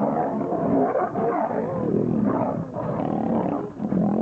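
Several wild animals calling at once, their overlapping calls rising and falling in pitch without a break.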